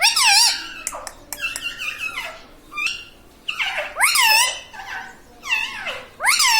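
Indian ringneck parrot calling in a string of about five short, high-pitched phrases, each rising and falling in pitch, the mimicked speech of a talking parrot.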